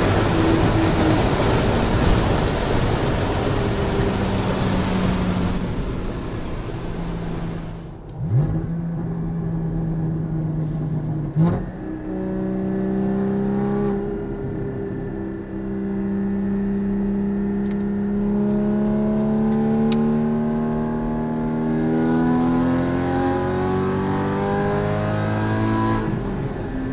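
Porsche Cayman GT4 flat-six through a Fabspeed race exhaust: loud hard acceleration for the first several seconds, then the throttle lifts and the sound drops sharply. Two short sharp bursts follow, then a steady engine drone that slowly climbs in pitch and falls again near the end.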